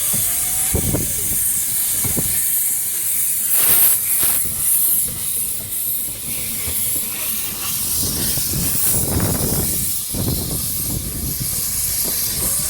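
Narrow-gauge steam locomotive hissing steam steadily, with some lower rumbling underneath.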